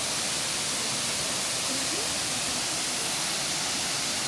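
Waterfall rushing: a steady hiss of falling water, with a faint voice briefly about halfway through.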